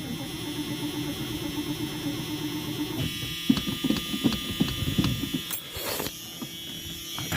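Steady electric warning buzzer on a 1978 Ford Thunderbird's dashboard, sounding with the key in before a cold start. From about three seconds in it is joined by irregular clicks and knocks.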